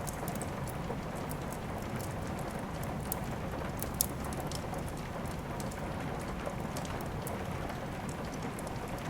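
Steady rain falling, mixed with the crackle of a wood fire: scattered sharp pops over the even hiss, one louder pop about four seconds in.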